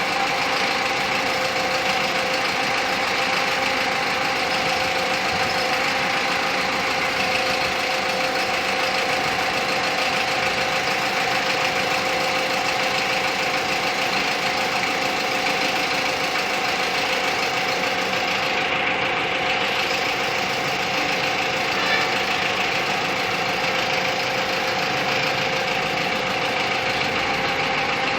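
Diesel engine of a Dongfeng crane truck running steadily, with a steady whine over it.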